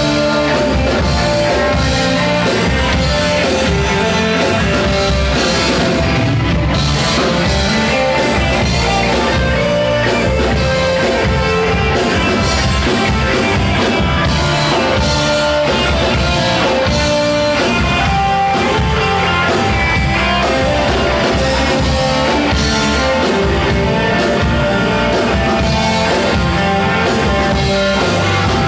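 Rock band playing live, with guitar and drum kit.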